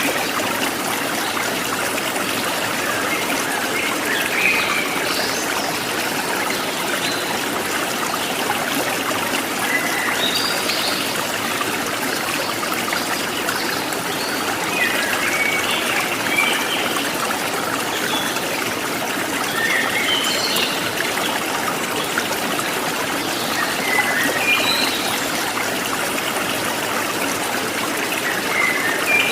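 Steady trickling of running water, with short high bird chirps now and then.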